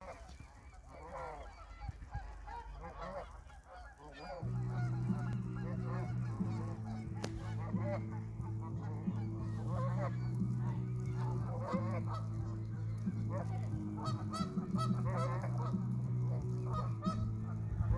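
A flock of geese honking, many short overlapping calls. A steady low hum comes in about four and a half seconds in and runs under the calls.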